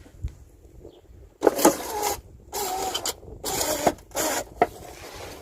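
Motorhome entry step mechanism being worked by hand: metal scraping and squeaking in four short bursts.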